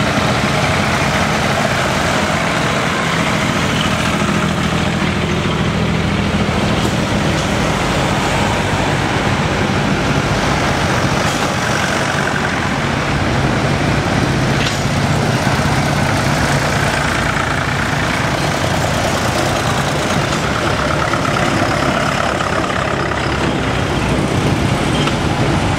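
Tractor engine running steadily at close range, a loud continuous low hum with no breaks.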